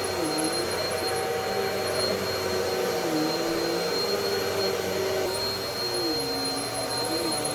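Bissell PowerLifter Pet 1792 upright vacuum cleaner running steadily, with a motor hum and a thin high whine. The hum's pitch dips briefly several times.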